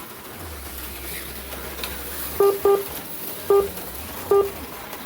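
Four short electronic beeps from the slot car race-timing system, the first two close together and the others about a second apart, over a low steady hum.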